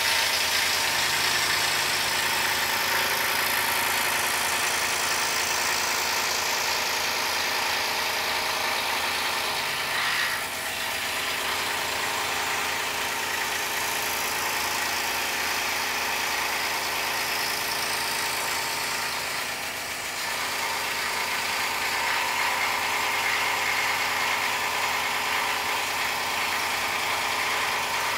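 Scroll saw running steadily, its blade cutting a 1-inch poplar board, with two brief dips in level.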